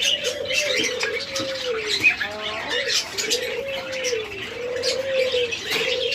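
Many caged doves cooing: a string of low coos, each about a second long and arching up then down in pitch, one after another. Small birds chirp high above them throughout.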